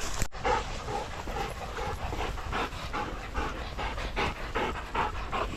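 A dog panting quickly, about four breaths a second.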